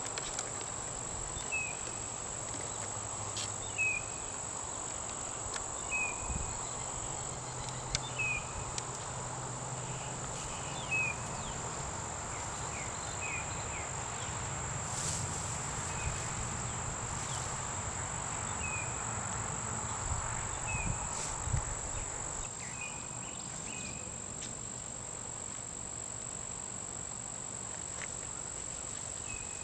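Outdoor insect chorus: one steady, high-pitched trill throughout. A short chirp repeats about every second or two over it, and a faint low hum sits underneath through the middle stretch.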